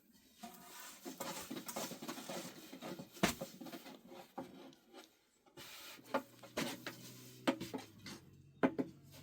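Hand handling sounds: irregular rubbing and scraping with scattered sharp knocks, the loudest about three seconds in and near the end, and a faint low hum joining about six seconds in.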